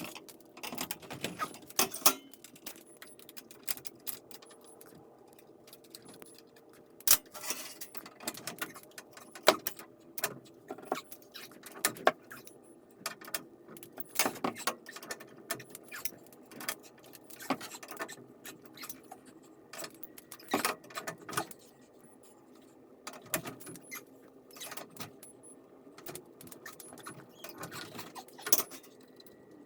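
Irregular metallic clinks and rattles of hand tools and hardware being handled during garage door torsion spring work, over a faint steady hum.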